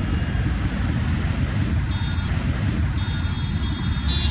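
Steady low rumble of a vehicle travelling along a road, with wind on the microphone. Faint thin high-pitched tones come in about two seconds in and again about a second later.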